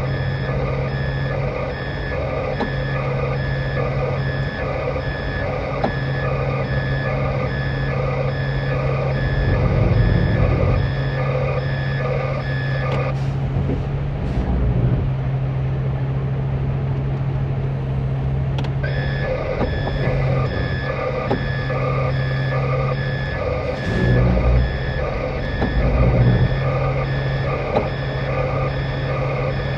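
Concrete mixer truck reversing: its back-up alarm beeps in a steady repeating pattern over the running engine. The beeping stops for about five seconds midway, then starts again.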